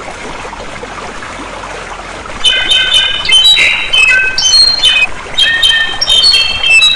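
Steady rushing of flowing water, then about two and a half seconds in a songbird starts singing loud, rapid, varied whistled notes that jump about in pitch.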